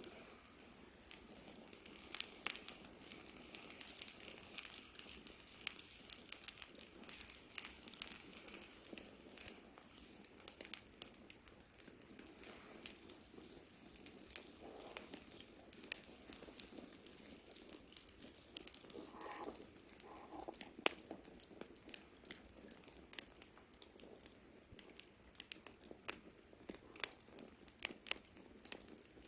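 Wood campfire crackling: irregular sharp pops and snaps from the burning wood over a low hiss.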